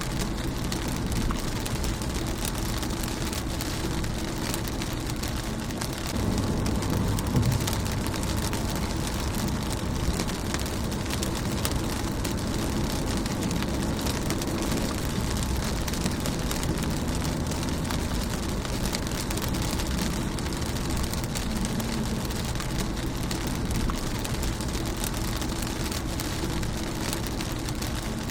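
Steady rain falling on a car's windshield, a dense hiss with individual drops ticking on the glass. Underneath runs a low rumble that swells briefly about six seconds in.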